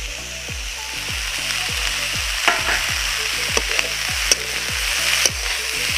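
Saag with potatoes and tomatoes frying in mustard oil in a kadhai, sizzling steadily while a spatula stirs it, with a few sharp clicks of the spatula against the pan.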